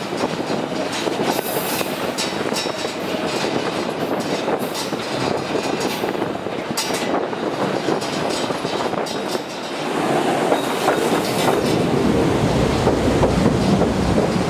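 Narrow-gauge passenger train running along curving track, heard from the window of a coach: a steady rumble of wheels on rails with rapid clicking. About ten seconds in, the sound becomes louder and deeper.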